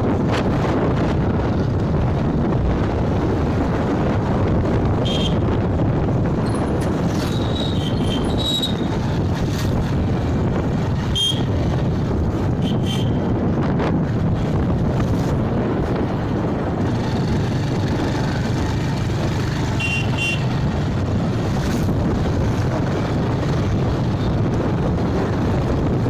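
Wind rushing over the microphone and road noise from a moving motorbike in traffic, with several short horn beeps scattered through.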